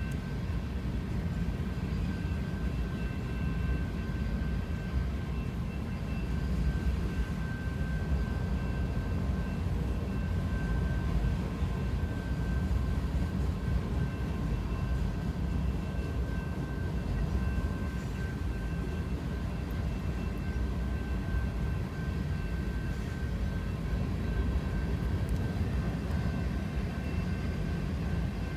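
Train running with a steady low rumble, with a faint steady high whine over it.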